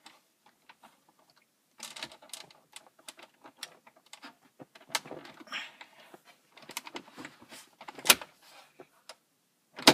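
Plastic dash trim panel being handled and pushed back into place, with irregular clicks, scrapes and rattles and two sharp snaps near the end as clips seat.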